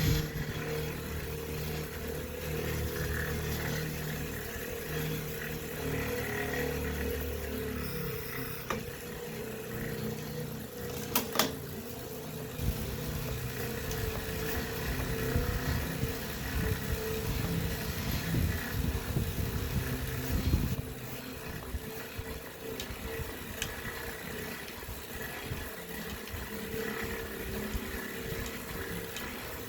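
Wahoo Kickr smart bike trainer running with an abnormal noise: a steady mechanical whir with a constant hum and a pulsing low rumble, a sharp click about eleven seconds in, and the rumble easing a little about two-thirds of the way through.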